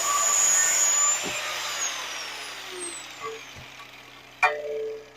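Angle grinder cutting stainless steel exhaust tubing. About a second in it is released and winds down with a falling whine. Near the end a sharp metallic clank rings briefly.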